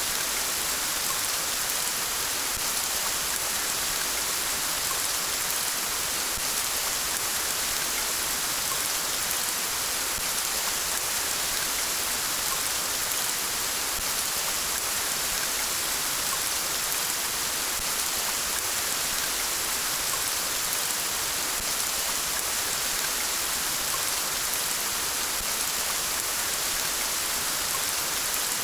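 Steady rain falling: an even hiss, strongest in the high range, with faint scattered drop ticks.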